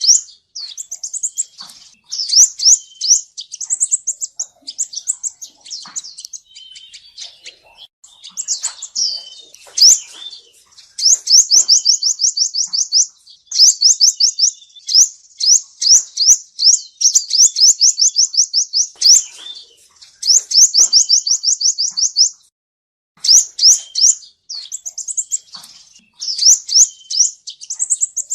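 Male sunbird singing: fast trills of short, high, rising notes in bursts of a second or two, repeated with short pauses, and a brief break about three-quarters of the way through.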